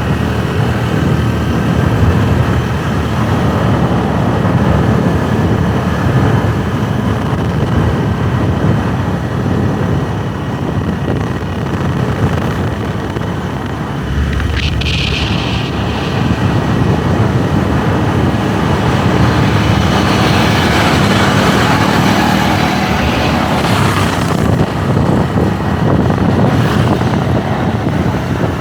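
Motorbike engine running on the move, with wind noise on the microphone. A brief high-pitched sound comes about halfway through.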